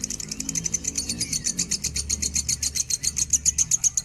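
Lovebird singing a long, rapid, high-pitched chattering trill of many notes a second, growing louder towards the end.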